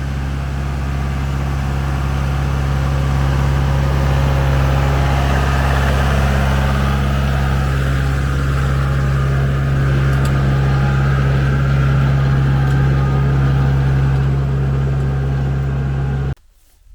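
Kubota L4060 tractor's diesel engine running steadily at a constant speed, a loud, even low drone.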